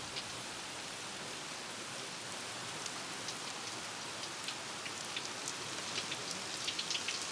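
Steady rain falling: an even hiss with scattered sharper drop impacts that come more often toward the end.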